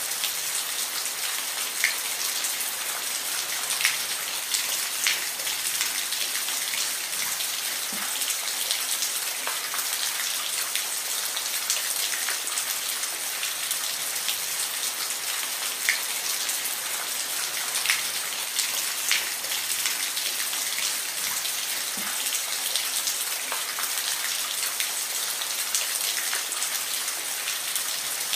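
Steady rain falling, a continuous hiss with scattered louder individual drops tapping close by.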